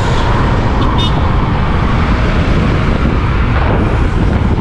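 Steady, loud wind buffeting on the microphone over motorcycle engine and road noise while riding along at road speed.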